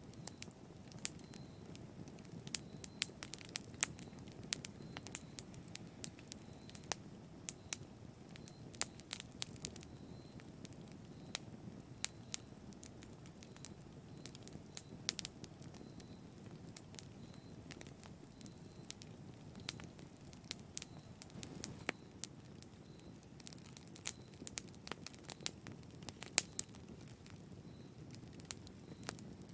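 Wood fire burning in a fireplace: a low steady rumble of flames with frequent irregular sharp crackles and pops.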